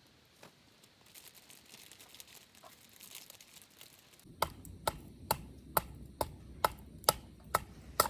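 A run of sharp, evenly spaced strikes, about two a second, starting about four seconds in, with only faint rustling before them.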